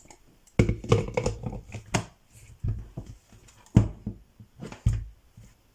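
A series of irregular knocks and clatters, about seven sharp hits spaced unevenly, typical of handling utensils and containers while preparing food.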